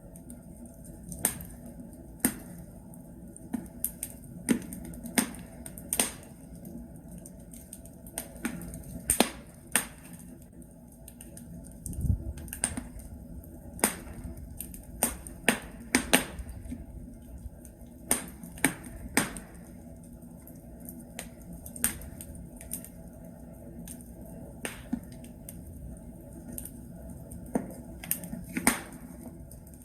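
Wood logs burning in a fireplace, crackling with irregular sharp pops and snaps over a low steady rumble of the fire, with one dull low thud about twelve seconds in.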